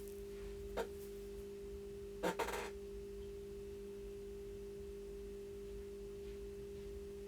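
A steady low hum of two pure tones, one an octave above the other, with a few short clicks, one about a second in and a cluster about two and a half seconds in.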